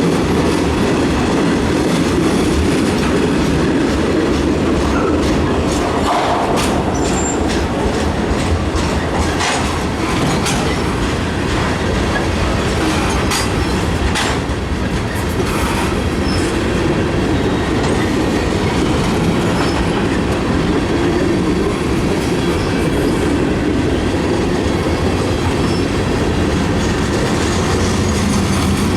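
Freight cars of a mixed freight train rolling past close by: a steady rumble of steel wheels on rail, with clicks over the rail joints and a few short, high wheel squeals.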